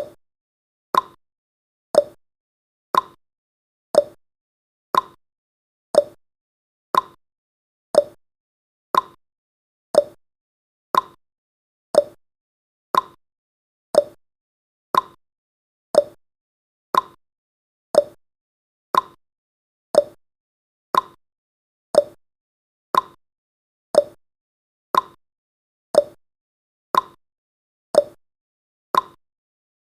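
Countdown timer's tick sound effect, one short sharp tick every second, each dying away quickly.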